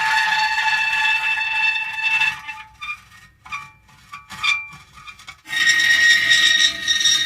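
Metal creaking, a long steady squealing creak that breaks up after about two seconds into short, irregular creaks. A long creak starts again about five and a half seconds in.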